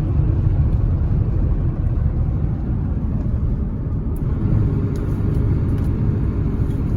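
1996 Ford F-350's 7.3-litre Power Stroke turbo-diesel V8 running steadily with road noise, heard from inside the cab as the truck slows for traffic.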